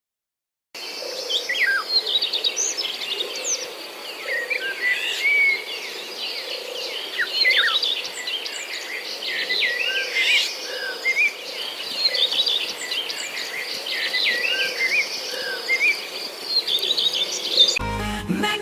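Woodland birdsong: several songbirds singing together in many short chirps, trills and whistles. Music comes in just before the end.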